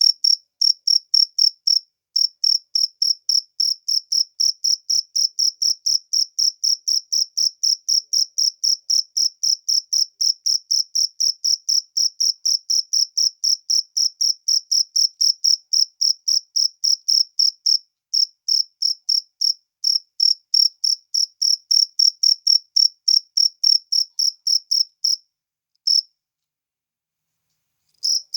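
Cricket chirping: a steady, even train of short, high-pitched chirps, about three to four a second. It stops for a couple of seconds near the end, then starts again.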